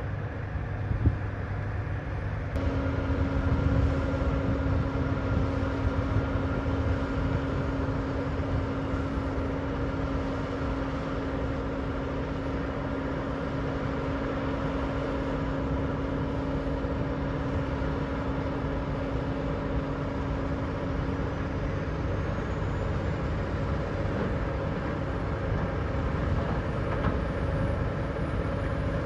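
Heavy diesel machinery engines running steadily under load, a deep continuous rumble. A steady whine starts abruptly about two and a half seconds in.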